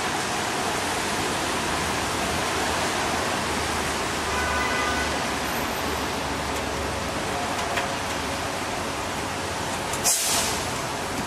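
Steady rain on a city street with traffic going by. A vehicle's low rumble swells about four to six seconds in, and a short, sharp hiss comes about ten seconds in.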